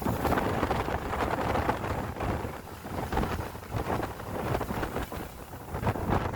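Strong wind buffeting the microphone, rising and falling in gusts.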